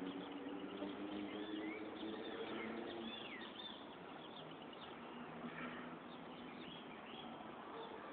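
Birds chirping and calling in short, quick notes, with a faint steady low drone underneath for the first three seconds or so.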